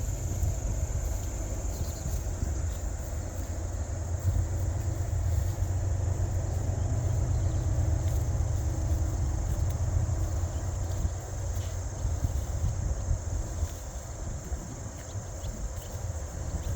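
Steady high-pitched insect trilling, such as crickets, over a continuous low rumble.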